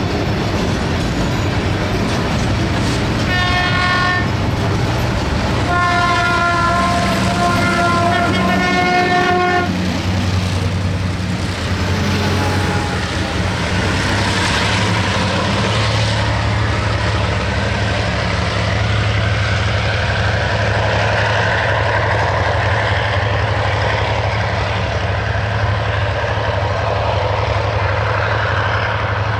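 Train horn sounding twice, a short blast and then a longer one of about three and a half seconds, over the steady rumble of the passing train's engine and running gear, which carries on after the horn stops.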